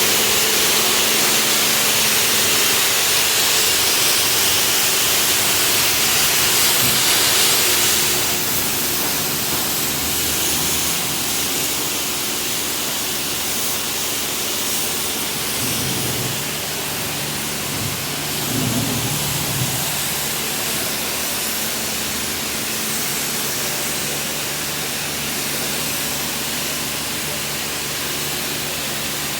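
High-pressure car-wash water spray hissing steadily over the steady hum of the pump motor; the hiss eases a little about eight seconds in.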